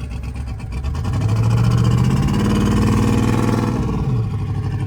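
Twin-turbo limousine's engine under a hard throttle pull: the engine note swells and grows loud about a second in, holds for about three seconds, then eases off near the end.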